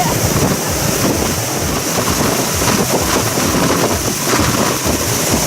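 Motorboat running on the water, with wind buffeting the microphone as a steady rushing noise.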